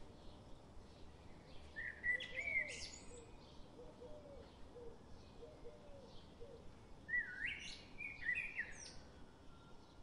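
Bird calls: two short bursts of high chirping calls that slide up and down in pitch, about two seconds in and again about seven seconds in. Between them come fainter, regularly repeated chirps over a steady background hiss.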